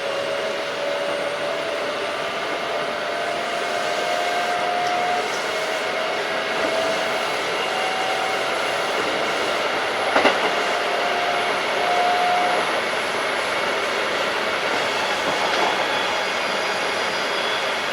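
Keikyu 1500 series field-chopper electric train running at speed, with steady rail and running noise. A faint whine rises slowly in pitch over the first twelve seconds, and a single sharp click comes about ten seconds in.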